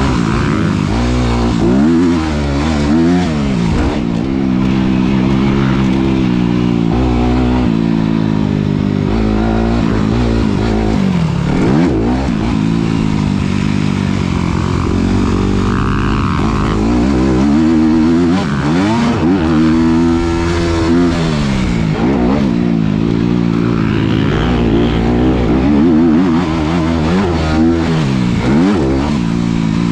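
Honda CRF250RX's four-stroke single-cylinder engine, ridden hard: the revs climb and drop again and again as the rider works the throttle and gears.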